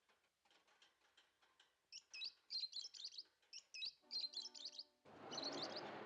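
Caged lovebirds chirping in quick, high twitters from about two seconds in. Near the end a short buzzing tone sounds, and then a louder rushing noise takes over.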